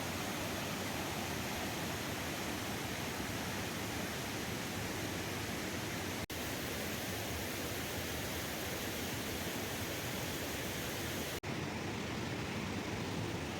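Steady rushing noise with no distinct events, broken by two momentary dropouts about six and eleven seconds in; after the second the top end is a little duller.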